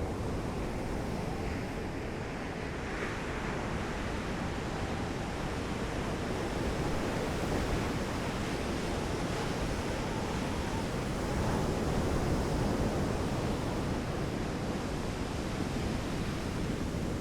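Sea surf washing in as a steady rush of noise, swelling slightly a couple of times, with wind on the microphone.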